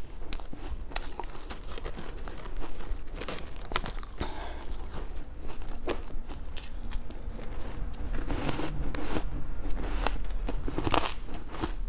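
A person biting and chewing ice close to the microphone: an irregular run of sharp, crackling crunches.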